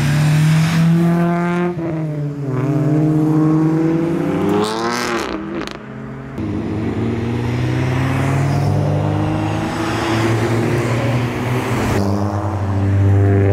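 Engines of modified tuner cars accelerating away one after another, pitch climbing and falling as they rev and shift. About four seconds in, one engine revs sharply upward before cutting off at about six seconds.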